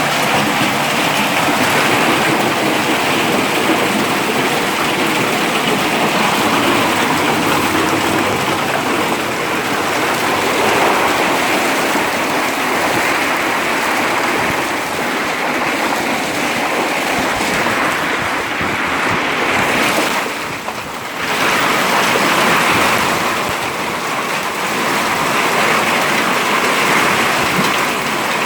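Hailstorm: hail and rain pelting down in a dense, steady hiss, dipping briefly about twenty seconds in.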